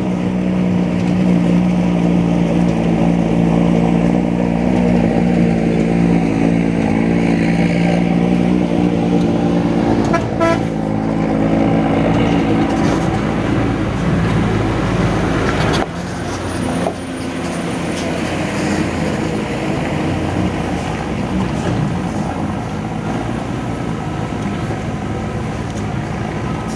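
Heavy truck's diesel engine running under load with a steady drone, which drops suddenly about sixteen seconds in and carries on at a lower, rougher level.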